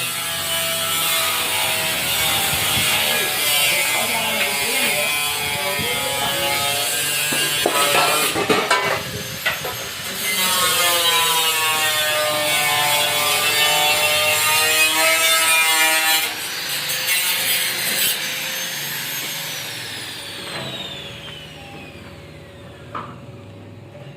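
Electric angle grinder running under load, its whine sagging in pitch and recovering as it bites, with a brief pause about nine seconds in. Near the end it is switched off and winds down over several seconds, its pitch falling steadily.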